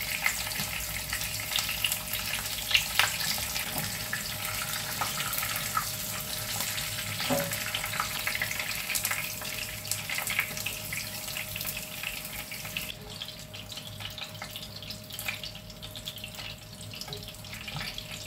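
Red onion pieces sizzling and crackling in hot oil in a frying pan, with sharp clicks of metal tongs against the pan. The sizzle dies down about two-thirds of the way through.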